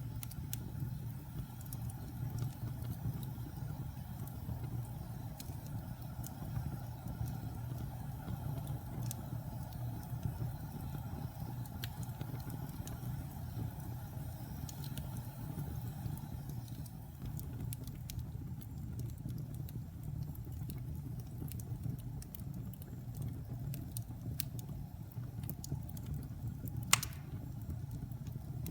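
Wood fire burning in a fireplace: a steady low rumble of flames with scattered small crackles and one louder pop near the end.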